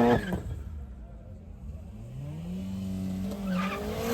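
A car engine revving: a loud high-revving note cuts off right at the start, then another engine climbs in pitch about two seconds in and holds at high revs, with a second rising note joining near the end.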